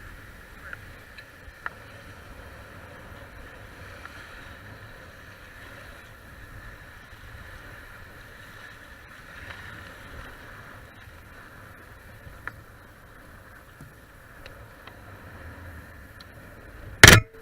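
Steady wash of water and wind noise on a Hobie Cat catamaran, with a few faint clicks and one loud, brief knock near the end.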